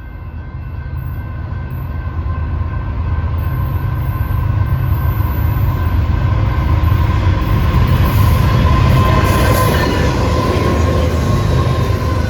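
A BNSF freight train passing at about 50 mph: heavy rumble and rail noise that grows louder over the first few seconds and stays loud as the train goes by.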